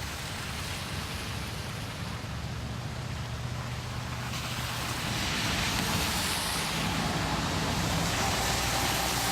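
Road traffic noise: vehicles and tyre hiss on the road, growing louder and brighter about four to five seconds in as traffic passes close by.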